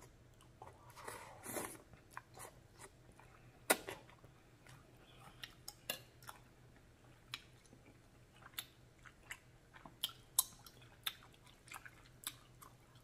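Close-up mouth sounds of eating black bean sauce noodles: a slurp about a second in, then wet chewing with a scattered run of short smacks and clicks.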